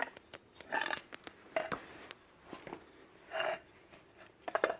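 Light clicks and clinks of metal parts being handled, in short scattered bursts with a cluster of quick clicks near the end.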